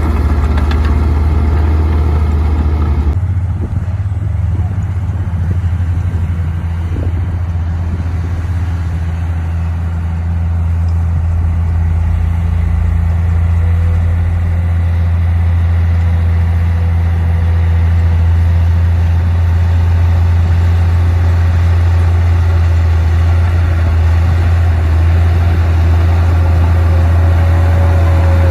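Komatsu D58P bulldozer's diesel engine running steadily with a deep drone, its sound shifting about three seconds in; a faint whine rises near the end.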